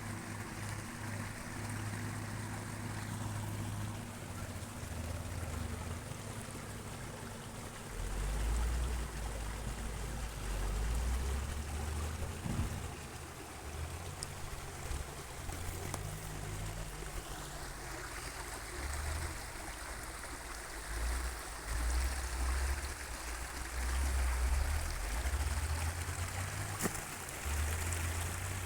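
Running water rushing steadily, with irregular low rumbles coming and going.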